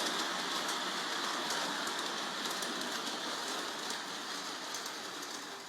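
G-scale model train running along its track: a steady rolling rumble of wheels and motor with faint scattered ticks from the rails, slowly growing quieter.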